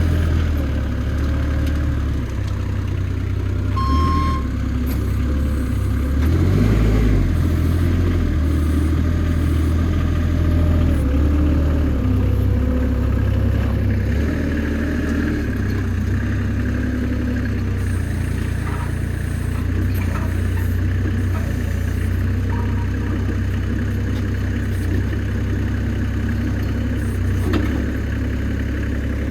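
Forklift engine running steadily, its speed rising and falling now and then as the machine works, with a short high beep about four seconds in.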